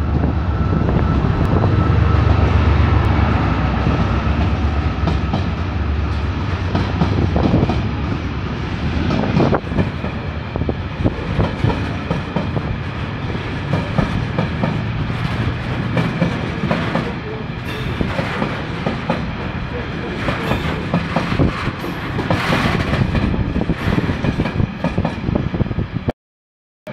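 A Class 68 diesel-electric locomotive, with a Caterpillar V16 engine, passes with a heavy low rumble. A long train of engineering wagons, ballast hoppers then flat wagons, follows it, clattering and clicking over the rail joints. The sound drops out for a moment near the end.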